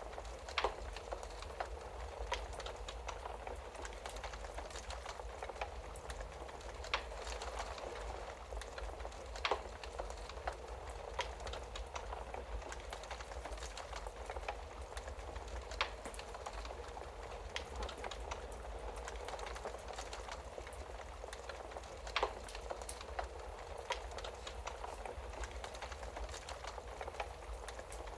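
Wood fire burning in a fireplace: a steady hiss with a low rumble beneath it and scattered sharp crackles and pops, a few louder snaps among them.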